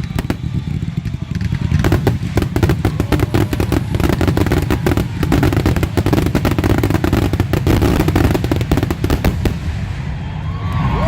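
Fireworks finale: a dense, rapid barrage of aerial shell bursts and crackling reports over a continuous low rumble. It thickens about two seconds in and thins out near the end.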